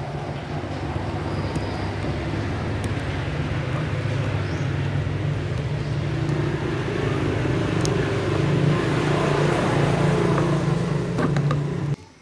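A machine running with a steady low hum and a broad rushing noise over it. It grows slowly louder and cuts off abruptly near the end.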